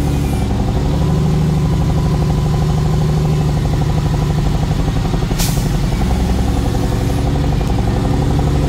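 Truck engine running steadily under way, a low even drone with a fast pulse. A short burst of hiss cuts in about five seconds in.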